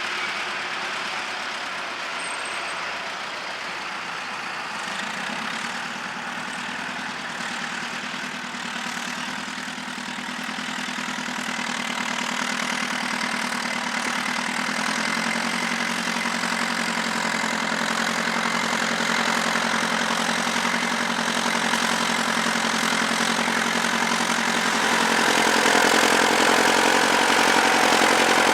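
Tractor engine running steadily. It grows gradually louder from about a third of the way in and steps up again near the end.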